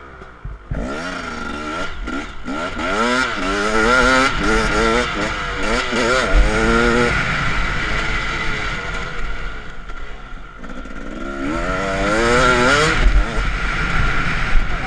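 Motocross bike engine heard from on board, revving up through the gears in several rising sweeps, easing off in the middle, then revving up again near the end.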